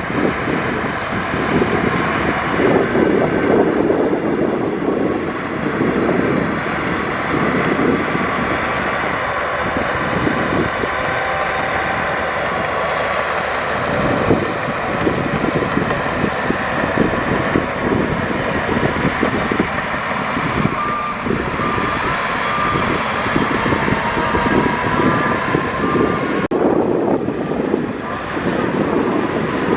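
Heavy diesel earthmoving machinery, a dump truck and a bulldozer, running steadily under load. In the later part a reversing alarm beeps about once a second.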